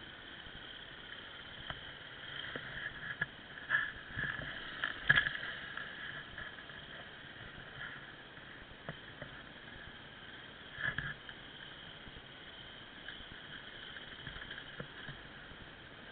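Off-road motorcycle engine running, heard muffled through a low-quality bike-mounted camera, with a few louder knocks and bursts about four to five seconds in and again around eleven seconds.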